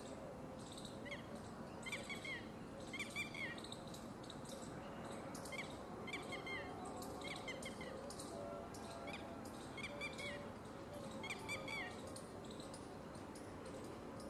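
Birds chirping in short, clustered calls every second or two over steady background noise.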